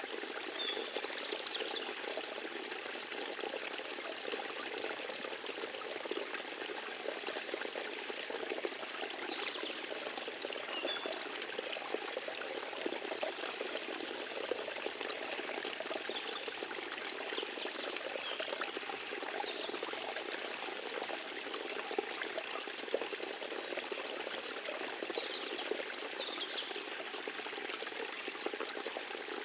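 Forest stream flowing and trickling steadily, with a few faint, short high chirps now and then.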